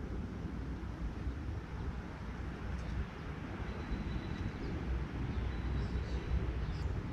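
Steady low outdoor rumble, with a few faint high chirps and a thin high tone in the middle.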